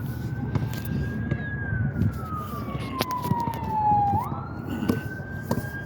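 An emergency vehicle siren wailing: a single tone that holds, glides slowly down, then sweeps quickly back up about four seconds in. Underneath is a steady low rumble of wind on the microphone, with a few sharp knocks.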